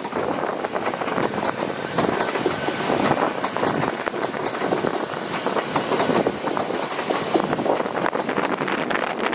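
Train running past on the tracks, its wheels clattering with many sharp clicks over a steady rumble of noise.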